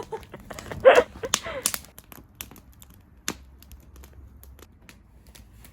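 Campfire wood crackling, with irregular sharp pops a few times a second. A brief voice sounds about a second in.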